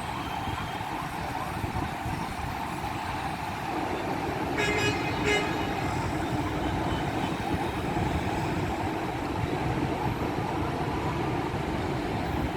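Steady heavy road traffic noise with engines running. A vehicle horn toots twice in quick succession about five seconds in.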